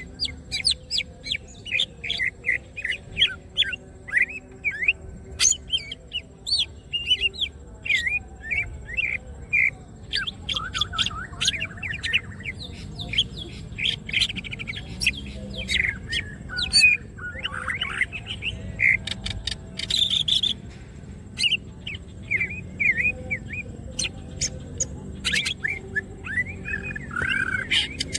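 Cucak ijo (green leafbird) in full, non-stop song: a rapid stream of short whistled chirps, quick up-and-down glides and trills.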